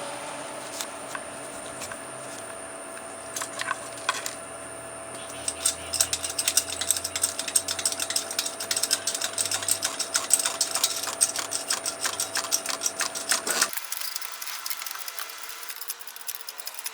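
Rapid metallic clicking and clinking of hand tools over a faint steady whine, ending abruptly near the end.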